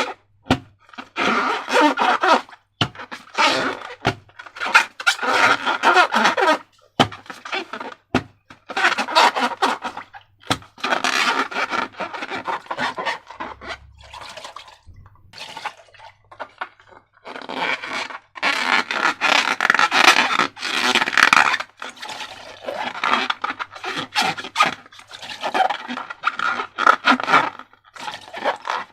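Slime being handled and squeezed with balloons: irregular bursts of wet, crackly squishing with short pauses between them, and a few sharp clicks.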